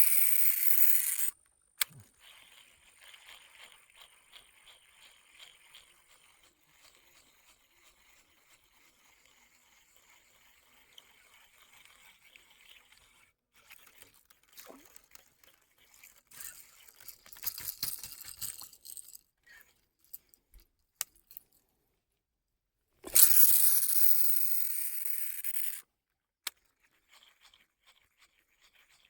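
Baitcasting reel spool whirring as line pays out on a cast, stopped sharply about a second in, followed by faint clicking and scratching of the reel being cranked. A second cast whirs for about three seconds near the end, fading before it stops abruptly.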